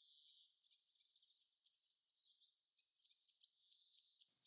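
Faint forest birdsong: many short, high chirps and quick rising and falling notes from several birds, thinning out for about a second in the middle.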